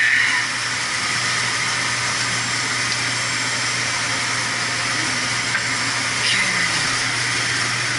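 Steady rushing hiss with a constant low hum underneath, the running noise of boiler-room machinery.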